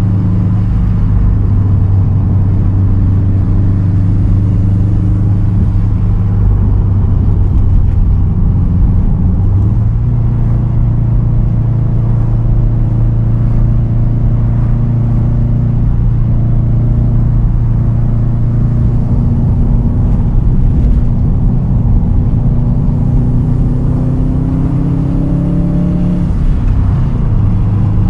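2010 Subaru WRX STI's turbocharged flat-four running through a straight-piped titanium exhaust, a steady loud drone while cruising. The pitch steps up slightly about ten seconds in, then rises gently and drops back near the end.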